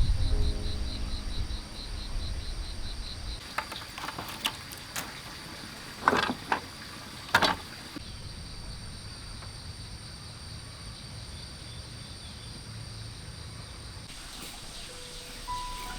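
Insects chirping in a rapid steady pulse over a low rumble. After an abrupt change about three seconds in, a few sharp clicks and knocks follow, then three louder, harsher strokes around six to seven and a half seconds in over a steady quiet background.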